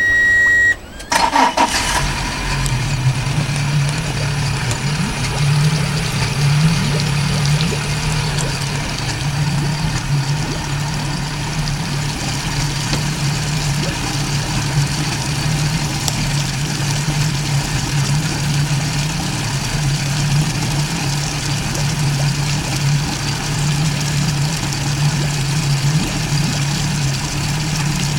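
Nissan FSB630T boat's engine starting: a steady high beep stops under a second in, the starter cranks briefly, and the engine catches about two seconds in. It then idles steadily with an even low drone.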